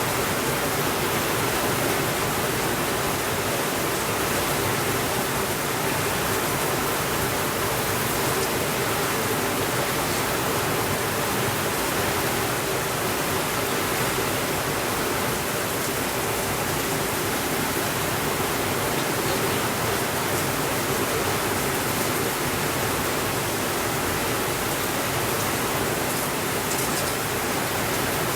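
Steady rainfall, an even, unchanging hiss with no thunder.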